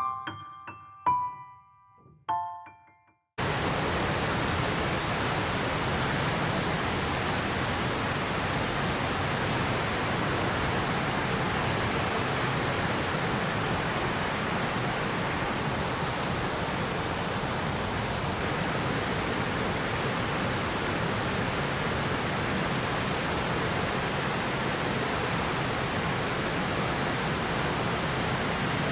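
A few piano notes end the background music. About three seconds in, the steady rush of the Ryumon Falls waterfall starts suddenly and holds unchanged.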